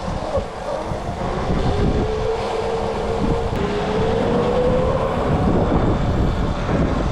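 Electric dirt bike riding, its motor whine rising slowly in pitch as it gathers speed, over heavy wind rumble on the microphone.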